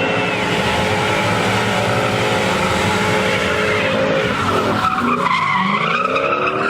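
A car's engine revving hard while its tyres squeal and skid, as in drifting or donuts. Around five seconds in, the revs drop and then climb again.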